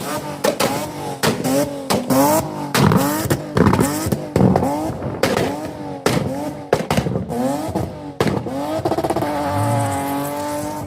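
Car engine being revved over and over in quick throttle blips, the pitch rising and falling each time, with sharp pops from the exhaust between the revs; near the end it holds a steadier note.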